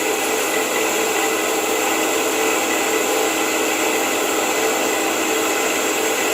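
Wood lathe running steadily with 240-grit sandpaper held against the spinning wooden lid: an even rubbing hiss over the lathe's constant hum.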